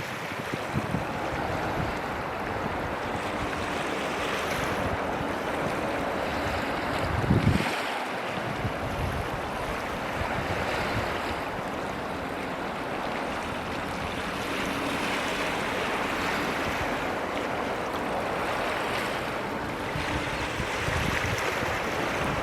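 Steady rushing outdoor noise of wind and water, like surf, with low buffets of wind on the microphone about seven seconds in and again near the end.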